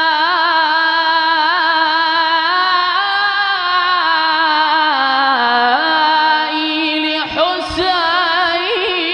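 A man's voice chanting an Arabic devotional ibtihal, drawing one word out into a long melismatic phrase of held, ornamented notes. The pitch steps down about five seconds in, with a brief break for breath around seven seconds before the line goes on.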